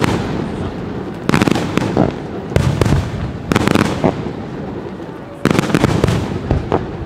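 Aerial fireworks display: shells bursting in a string of loud booms about every one to two seconds, each followed by crackling that fades away.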